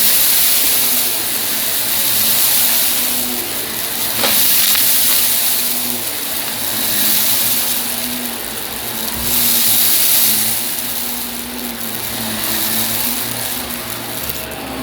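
Vacuum cleaner running, its hiss and motor hum swelling and easing every two to three seconds.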